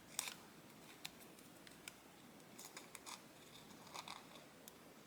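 Scissors cutting paper: a handful of faint, short snips at irregular intervals over low room hiss.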